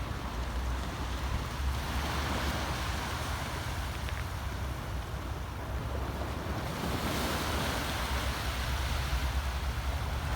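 Sea waves washing in, the surf swelling and fading, with wind rumbling on the microphone.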